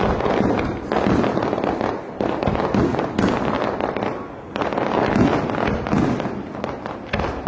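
Aerial firework shells bursting in quick succession, about six sharp bangs one to two seconds apart, each trailing off in crackling and rumble.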